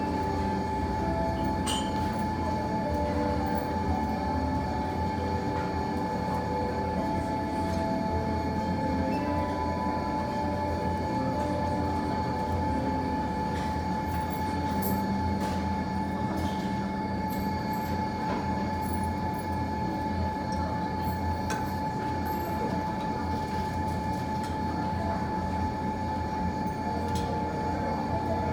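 Steady machinery hum with a constant high whine and a low rumble, with a few faint crackles from a fireplace fire.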